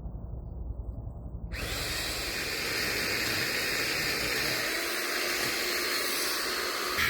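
A power tool starts about a second and a half in and runs with a steady, hissing noise over a low rumble.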